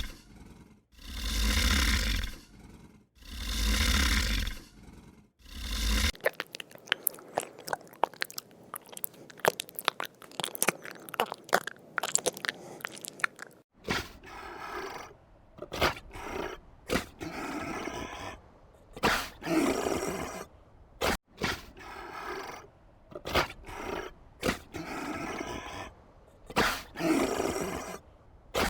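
Farm animal sounds in three parts: three long, loud calls about two seconds apart, then several seconds of crisp crunching like an animal chewing, then a series of short repeated calls.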